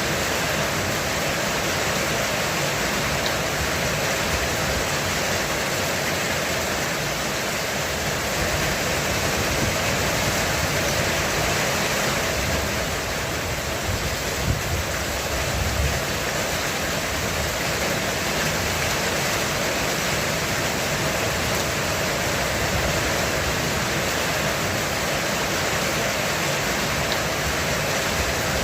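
Heavy rain falling steadily on a roof, a dense even hiss, with a brief low rumble about halfway through.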